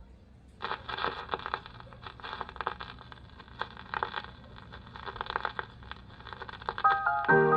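Crackling surface noise of a 45 RPM record in its lead-in groove, played on a restored RCA Victor 45-EY-2 record changer, thin-sounding with no deep bass or high treble. About seven seconds in, the record's music starts.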